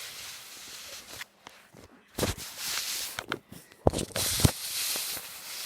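Handling noise: rustling with a few sharp knocks, the loudest cluster about four seconds in.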